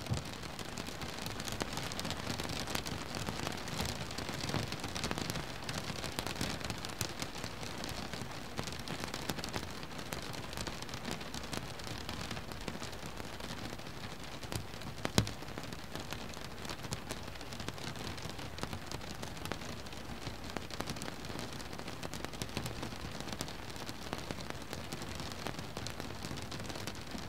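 Rain falling on a boat: a steady dense hiss of drops with many small individual drop ticks, and one louder sharp tick about halfway through.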